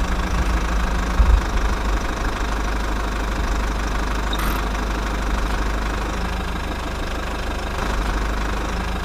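Small engine of a miniature DIY tractor running steadily.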